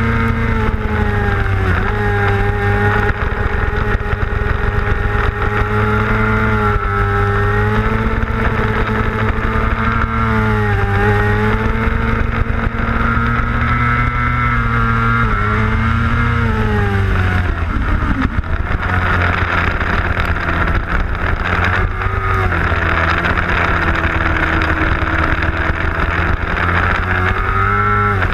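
A 600cc racing motorcycle's engine heard onboard, running at high revs. Its pitch climbs and dips back every few seconds. About eighteen seconds in it falls away sharply, then runs lower and climbs again near the end.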